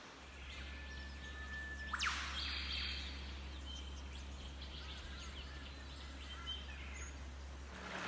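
Forest birdsong: a held whistled note, then a sharp whip-like sweep about two seconds in, followed by scattered chirps, over a steady low rumble.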